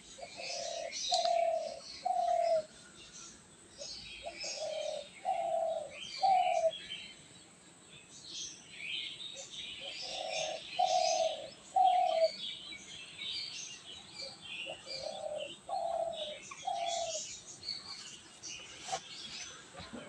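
A dove cooing in four phrases of three low notes each, a few seconds apart, over the steady chirping and chattering of a flock of small birds.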